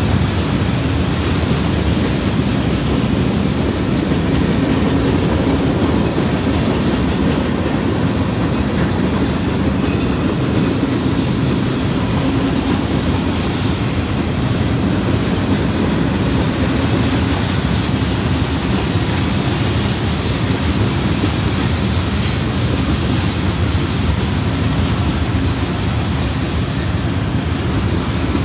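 Freight train cars (tank cars, covered hoppers and boxcars) rolling past at a steady speed: a continuous rumble of steel wheels on rail, with a couple of brief high clicks.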